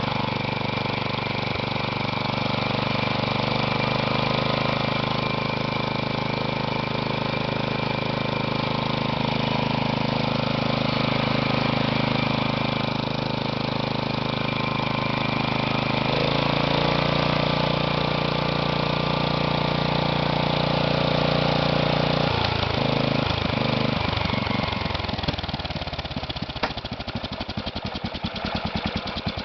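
Kohler Magnum 16 single-cylinder engine running steadily, then slowing about 23 seconds in to a low idle where the separate firing pulses can be heard. The idle is rough, and the engine still needs carburettor adjustment.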